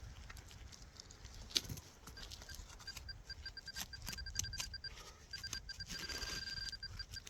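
Metal detector beeping in fast, even pulses as it is worked over a target in a dug hole, the beeps running together into a nearly continuous tone near the end, with scraping and clicking of soil being dug and one sharp knock about a second and a half in.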